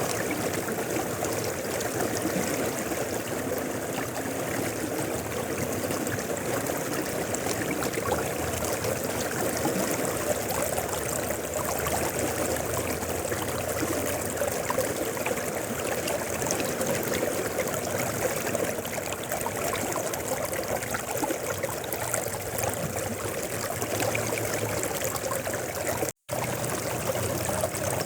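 Mountain river flowing over rocks, a steady rushing and babbling of water. The sound drops out completely for a split second near the end.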